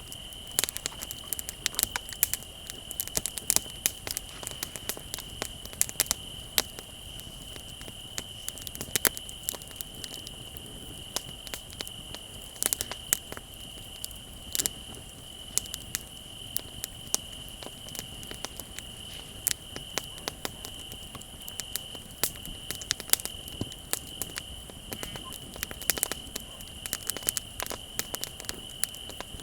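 Bonfire crackling and popping irregularly, with crickets trilling steadily and high-pitched underneath.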